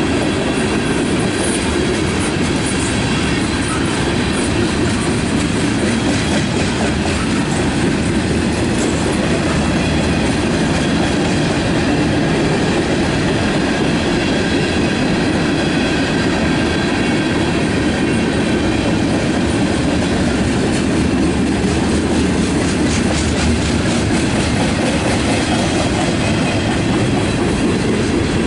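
Freight cars of a mixed manifest train rolling past at steady speed: a continuous rumble of steel wheels on the rails with clickety-clack from the wheels crossing the rail joints.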